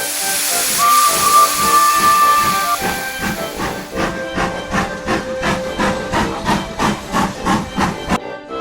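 Steam locomotive blowing off a burst of steam hiss, then sounding its whistle in one long steady note of about two seconds. A few seconds in, a steady, quick rhythmic chuffing starts, with music underneath.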